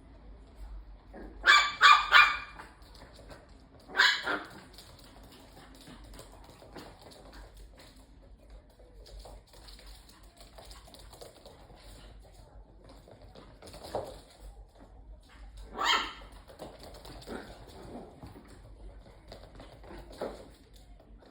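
Bichon frisé barking in short, sharp barks: a quick run of three barks near the start, a single bark a couple of seconds later, and another past the middle, with a few softer barks in between.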